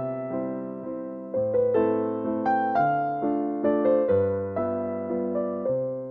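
Background piano music: a gentle melody of single struck notes over sustained low bass notes, each note fading after it is struck.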